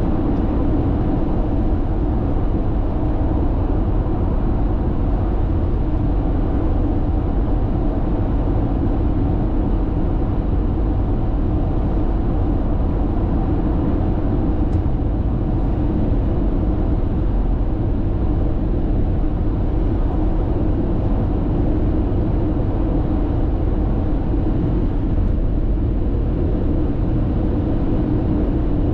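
Steady road noise of a car cruising at expressway speed, heard from inside the cabin: tyre rumble and a low engine and wind drone holding an even level throughout.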